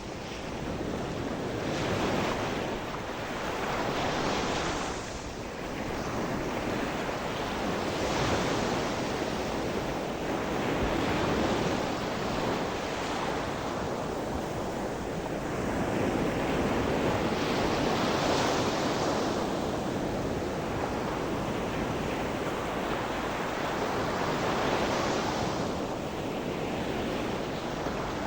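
Sea surf: waves breaking and washing in, the rush swelling and easing every few seconds.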